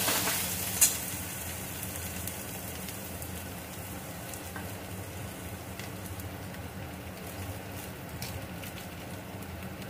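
Onions and potatoes sizzling steadily in mustard oil in an aluminium kadai, the onions frying to light brown. A metal spatula knocks against the pan once, about a second in.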